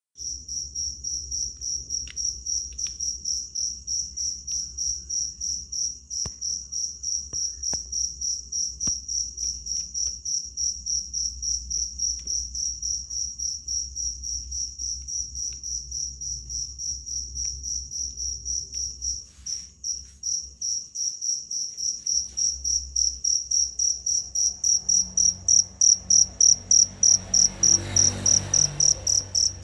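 Cricket chirping in a steady, even pulse of about two to three high chirps a second, growing louder near the end. Faint clicks, and a brief rustle near the end.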